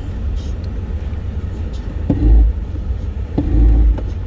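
Ford F-150 pickup's V6 engine rumbling at low speed while reversing, heard from inside the cab. Twice, about two seconds in and again near the end, a sharp click is followed by a brief louder low surge; the second surge is longer.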